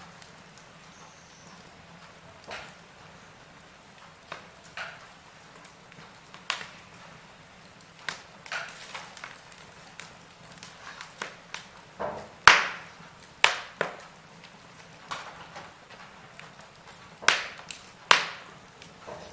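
Wood fire in a fireplace crackling: irregular sharp pops and snaps over a faint steady hiss, the loudest pops about twelve seconds in and near the end.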